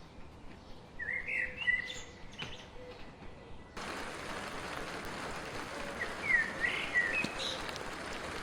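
A small songbird twittering in short warbled phrases, twice. About four seconds in, a steady hiss of falling rain starts abruptly and runs under the second phrase.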